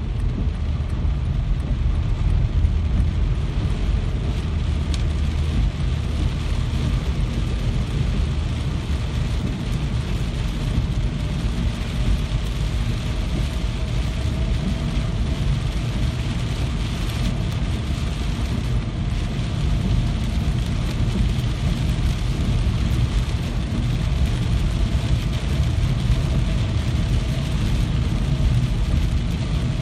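Steady rain, an unbroken hiss over a constant deep rumble.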